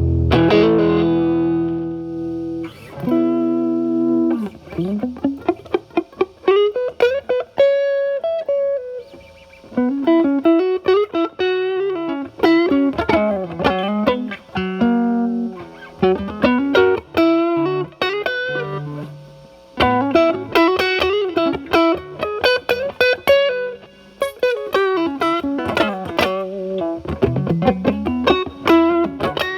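Stratocaster with single-coil pickups played through a Timmy overdrive pedal at maximum gain into a Marshall Valvestate amp, with the guitar's volume rolled back to clean up the overdrive. A held chord rings out and fades, then picked single-note licks and arpeggiated chords follow.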